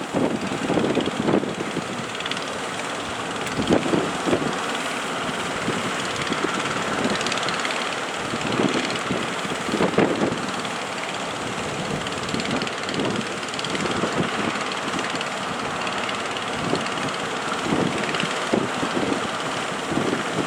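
Fishing boat engines running in a steady drone, with strong wind buffeting the microphone in irregular gusts that come through as thumps every few seconds.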